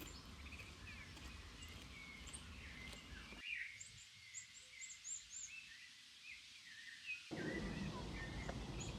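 Faint birdsong: many short chirps and whistles from small birds, over a low background noise that drops away for a few seconds in the middle.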